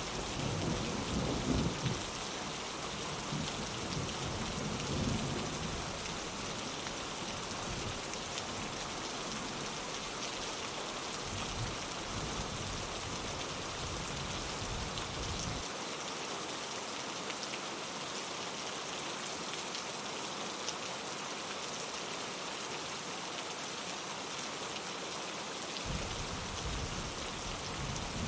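Steady rain pattering on a window, with low thunder rumbling about a second in and again around five seconds in.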